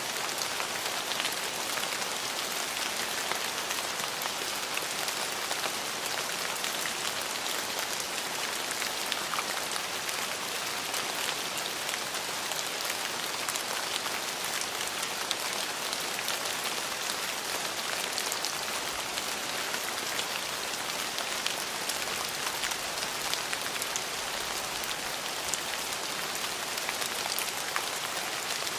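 Steady, even rainfall with a dense patter of fine drop ticks and no thunder.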